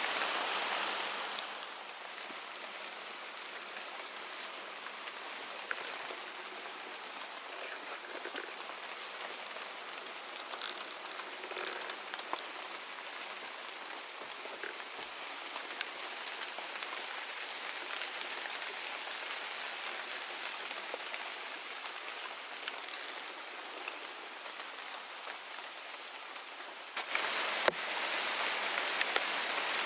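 Steady rain falling, an even hiss with scattered drip ticks. It is louder at the very start, eases off after about a second and a half, and turns abruptly heavier again near the end.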